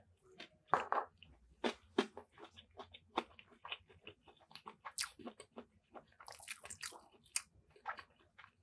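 Close-miked chewing of a mouthful of pepper shrimp fried rice: irregular short crunchy clicks, a few a second.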